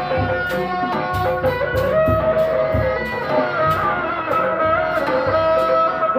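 Live traditional Sundanese benjang ensemble music: a held, bending melody line over steady drum strokes, about two to three a second.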